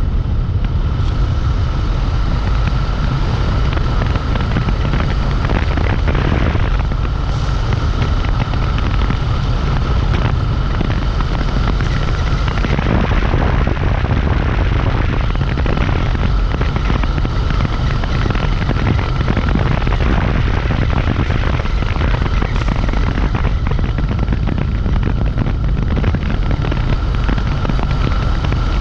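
Steady wind rumble on the microphone of a moving Dualtron Compact electric scooter, with the scooter's high, steady whine.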